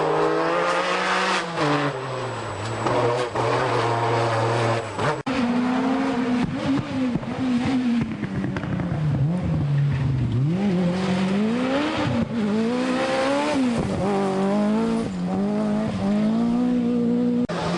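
Group B rally car engines revving hard, the pitch climbing and dropping again and again as the cars accelerate and change gear. About five seconds in, the sound cuts abruptly to another car.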